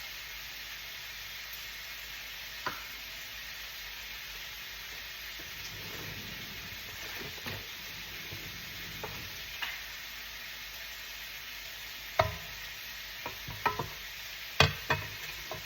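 Sugar melting in a frying pan for caramel, stirred with a utensil over a steady low hiss. A few sharp clicks and scrapes against the pan come now and then, bunched together near the end.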